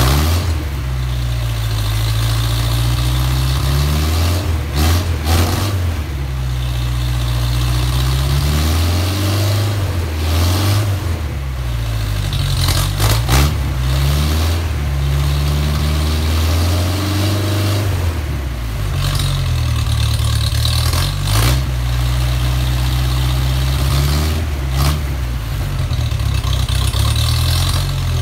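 1956 Mercedes-Benz 190SL's freshly rebuilt four-cylinder engine running on its first start-up, revved up and dropped back to idle again and again.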